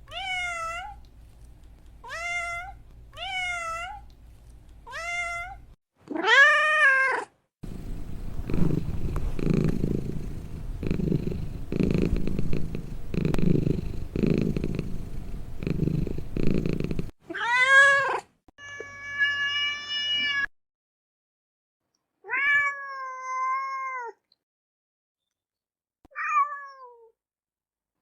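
A domestic cat meowing again and again, with short calls that rise and fall in pitch. In the middle there is a stretch of about nine seconds of low, uneven rumbling noise with no meows, and then the meowing picks up again.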